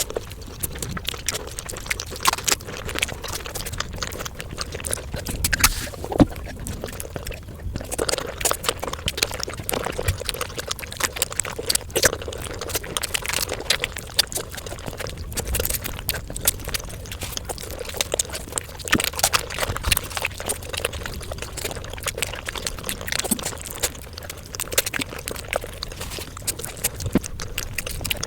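Close-miked eating sounds: wet chewing and slurping, a dense irregular run of small mouth clicks and crackles.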